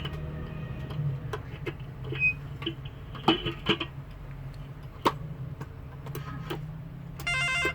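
Scattered clicks and knocks from a landline telephone being handled on a repair bench, over a steady electrical hum. Near the end comes a short burst of electronic warbling tone.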